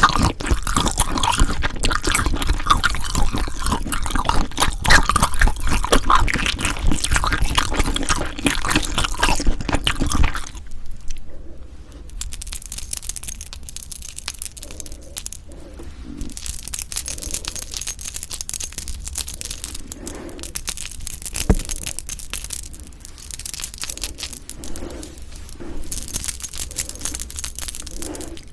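Close-miked food ASMR sounds: about ten seconds of dense, loud crackling, then a quieter stretch of soft, wet sounds.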